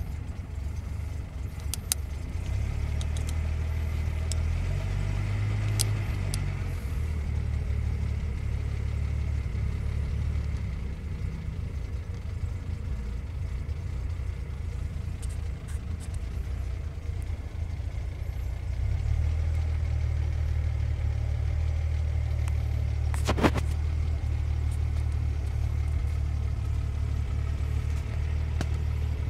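1936 Rolls-Royce engine running at a steady idle, heard from inside the cabin as a low, even rumble. Its level rises and falls a little, stepping up about two-thirds of the way through. There is one sharp click near the end.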